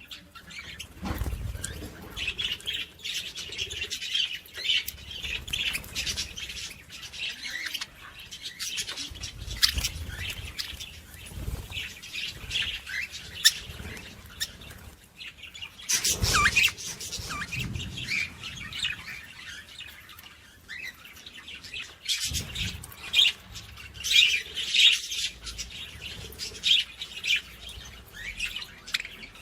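Small birds chirping and calling continuously in quick, high-pitched notes, with a few dull thumps underneath.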